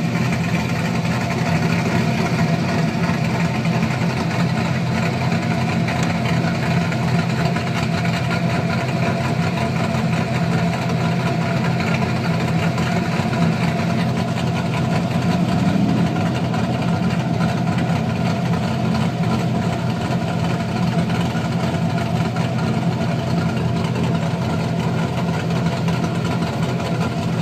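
LS-series V8 with an aftermarket cam, heads and intake idling with a choppy cam lope, with a brief small rise in revs about halfway through.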